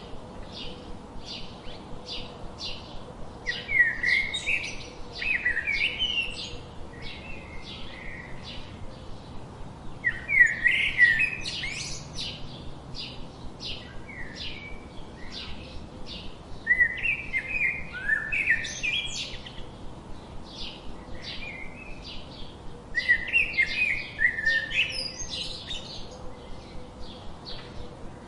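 Songbirds chirping: a steady run of short, high chirps, about three a second, broken by louder, quick warbling song phrases of rapidly rising and falling notes, five times.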